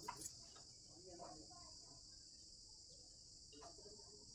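Faint, steady high-pitched insect chirring, with faint voices in the background.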